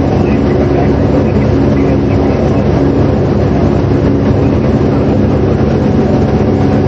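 A loud, steady mechanical drone with a strong low hum, from an engine or machine running without a break.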